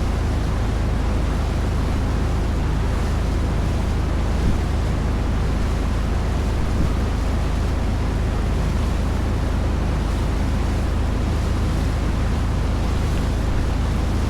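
A boat's engine running steadily with a low, even hum, under the rush of wind and water.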